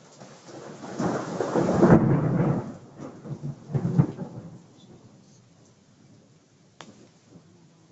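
A roll of thunder: a rumble that builds over about a second, peaks around two seconds in, surges again near four seconds and then fades away, leaving a faint hiss of rain.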